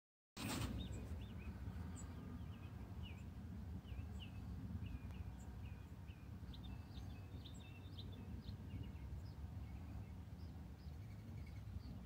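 Songbirds calling and singing in woodland: many short, quick chirps and whistled notes, one after another, over a steady low rumble.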